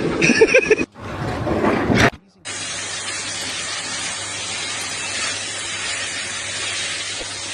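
A steady hiss with a faint low hum beneath it, starting after two brief cuts of other sound about two and a half seconds in.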